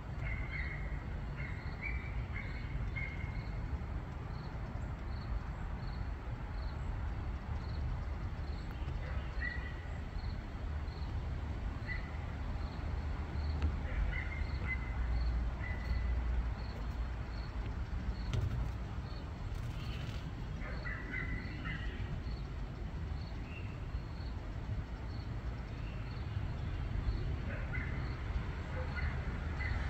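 Birds chirping now and then over a steady low rumble, with a faint high ticking repeating about twice a second.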